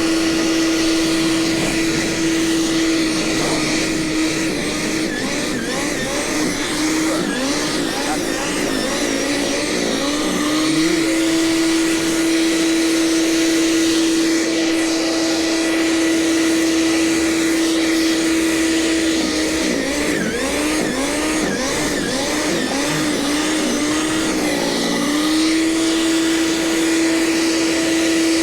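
Gasoline snowblower engine running at a steady high pitch, which dips and wavers again and again in two stretches as the machine bogs under load cutting into the snow, then settles back to its steady note.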